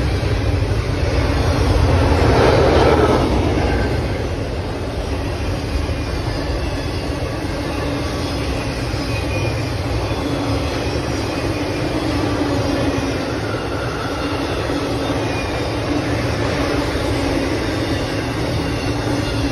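Intermodal freight train's well cars and trailer flatcars rolling past: a steady rumble of steel wheels on rail, with faint high-pitched wheel squeal. Loudest about two to three seconds in.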